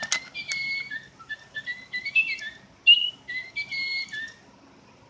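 Little Live Pets toy bird singing: electronic, whistle-like chirps in quick runs that stop about four and a half seconds in.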